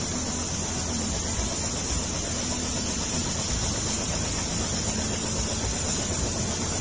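Helicopter running steadily before take-off: a constant high whine over a fast low pulsing.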